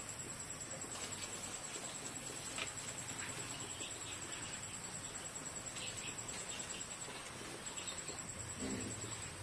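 Insects trilling steadily with a high, fast-pulsing chirr, over faint low background noise and a few small knocks.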